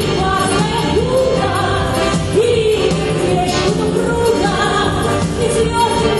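Female solo voice singing a Russian song in melodic phrases over instrumental accompaniment.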